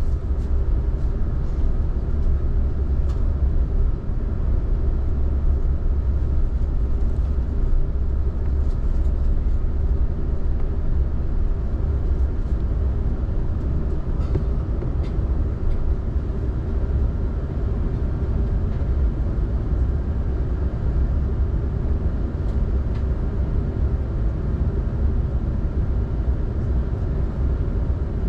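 Airbus A380 cabin noise: a steady low rumble of the engines and airflow heard from inside the cabin, with a few faint clicks and rattles in the first half.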